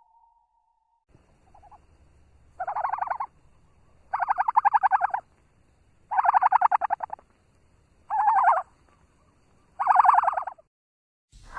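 Turkey gobbling: five loud gobbles, each under a second of rapid rattling, coming about every two seconds after a short faint call near the start.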